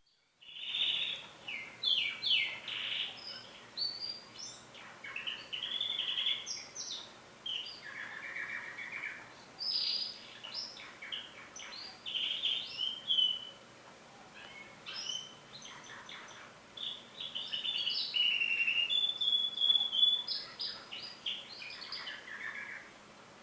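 Domestic canary singing a long, continuous song of rapid trills, chirps and short clear whistles, with barely a pause, stopping near the end.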